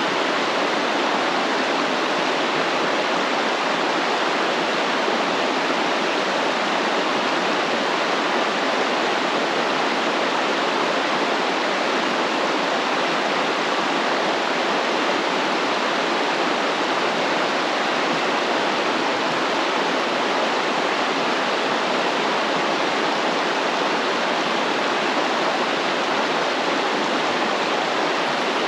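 Stream water flowing and rushing in a steady, unbroken wash.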